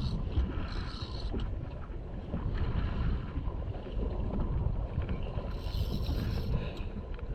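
A fishing boat under way on the sea: a steady low rumble of its engine and the hull through the water, with patches of hissing wind and water noise.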